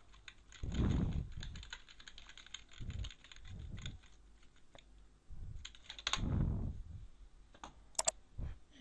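Computer keyboard typing and clicking in quick runs, densest in the first couple of seconds, with a few louder low bumps in between.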